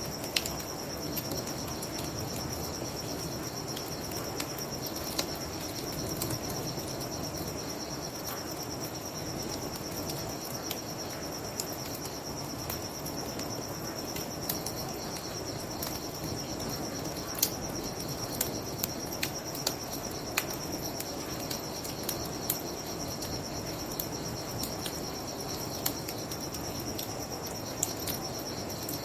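Crickets chirping in a steady high trill over a bonfire's wood crackling and popping in short sharp snaps, with a low steady rush underneath.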